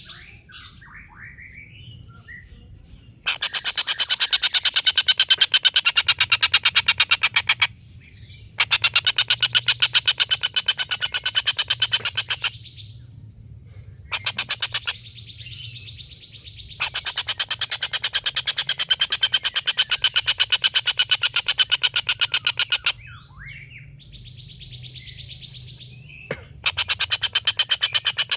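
Tengkek buto kingfisher giving its long 'ngekek' chatter: a very fast, even string of loud repeated notes in several bouts of a few seconds each, separated by short pauses with a few softer calls. A faint low hum runs underneath.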